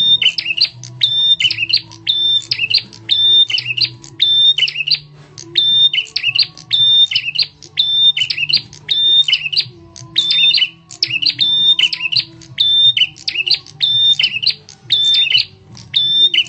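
Prenjak tamu bird call played as a lure: a loud, sharp call repeated over and over, about once a second, each call a rapid burst of ticks around a high held note. A faint low hum lies underneath.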